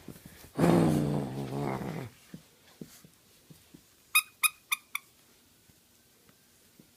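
A puppy growls once, for about a second and a half, while someone tries to take something from it. About two seconds later come four quick, high squeaks.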